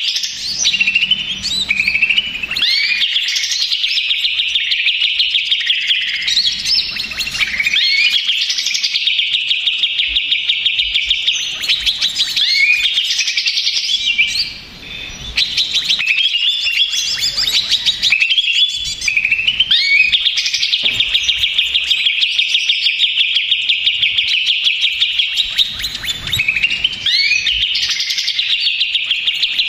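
Greater green leafbird (cucak ijo) singing a noisy, agitated song: a fast, buzzing trill held for long stretches, broken by rising and falling whistled notes, with a brief drop about halfway through. It is the kind of aggressive song used as lure audio to provoke other cucak ijo into singing.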